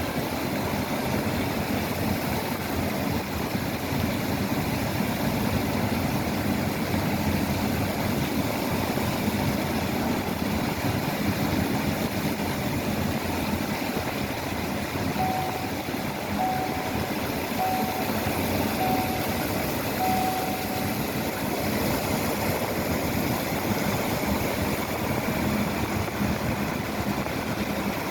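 Engines of railroad maintenance-of-way equipment running steadily, with five short beeps about a second apart past the middle.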